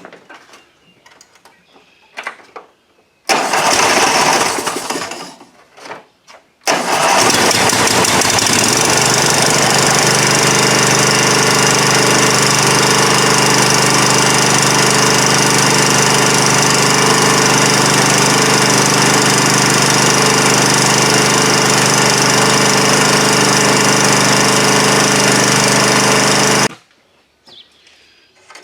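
Riding lawn mower engine started on a freshly changed oil and filter: a short first burst at about three seconds, then it catches at about seven seconds, runs steadily for about twenty seconds and is shut off abruptly.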